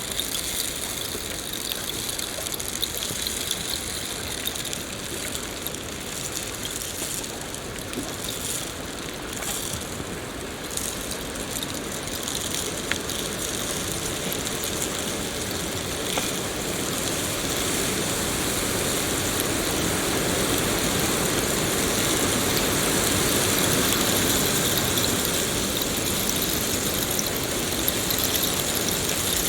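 Steady rain: an even hiss with a few sharp drip ticks, growing somewhat louder about halfway through.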